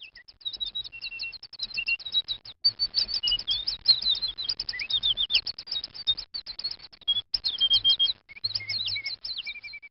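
Small birds chirping rapidly: many short, overlapping chirps that mostly fall in pitch, with a few brief held notes among them.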